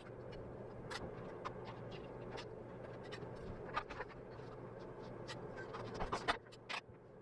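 Welding on a motorcycle muffler pipe: a steady electric arc hum with scattered ticks, which stops about six seconds in, followed by a few sharp ticks.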